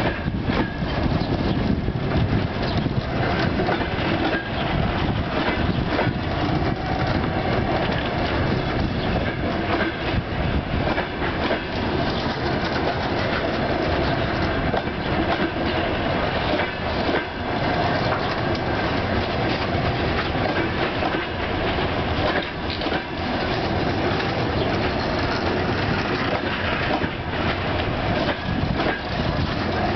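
Russian Railways passenger coaches rolling past close by: a steady rumble of wheels on rail, with the clickety-clack of wheels knocking over rail joints.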